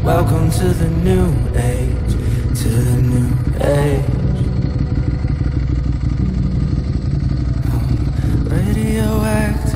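Ducati Streetfighter 1098 S's L-twin engine running as the bike slows and rolls in off the road, its note rising and falling over the first few seconds, then running steadily.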